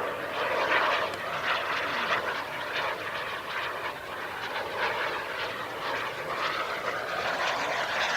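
Model jet turbine, a JetCat P200, running in flight: a steady jet rush with a faint whine that drops slightly in pitch as the model flies past.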